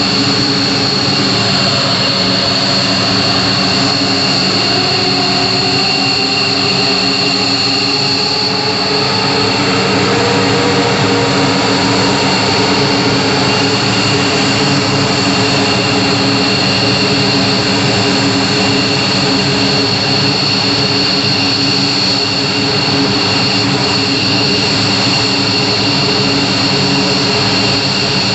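F-15 fighter's twin jet engines running on the ground, a loud steady roar with high turbine whine. Between about four and twelve seconds in, a tone rises in pitch as an engine spools up, then holds.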